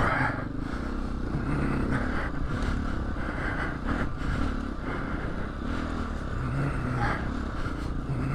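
Dirt bike engine running at moderate revs, its note rising and falling a little as the throttle is worked.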